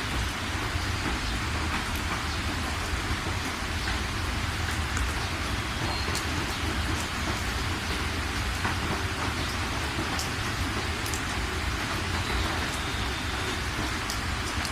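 Steady rain falling, an even hiss with a deep rumble underneath and scattered sharp drop ticks.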